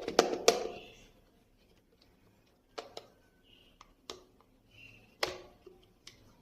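Small plastic toy pieces being handled: a quick run of clicks and knocks at the start, then single taps every second or so, with a few faint short squeaks between.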